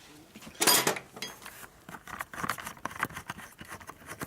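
Metal parts and hand tools clinking and clicking as pieces are handled at a motorcycle's rear swing arm. One loud metallic clank with a short ring comes near the start, followed by lighter clicks and taps.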